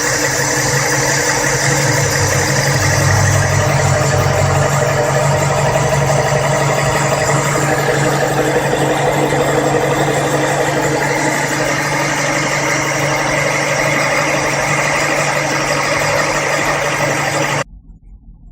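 Chevrolet Monza's four-cylinder engine running at a steady fast idle on the choke while warming up, with no valvetrain clatter now that the camshaft, rocker arms and hydraulic lifters have been replaced. The sound cuts off suddenly near the end.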